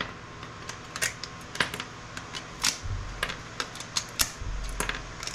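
Electronic components being pried and snapped off a circuit board with hand tools: a string of sharp, irregular clicks and snaps, with a couple of low thumps of handling in the second half.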